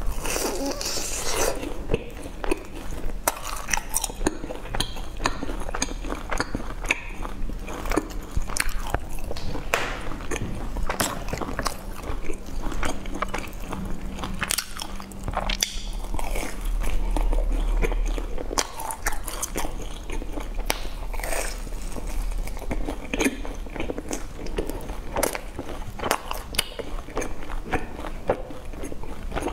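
Biting and chewing crisp deep-fried sesame balls with a chocolate filling: many irregular crunches and crackles of chewing, over a faint steady low hum.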